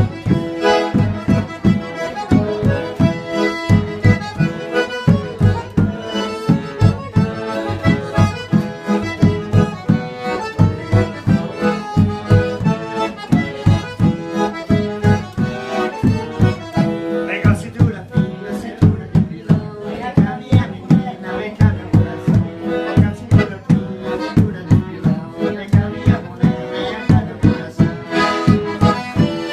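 Accordion (sanfona) music in a traditional style, playing over a steady beat of about two strokes a second.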